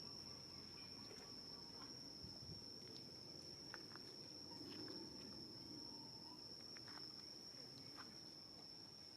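Faint, steady high-pitched drone of insects, one unbroken tone, with a few faint clicks and rustles.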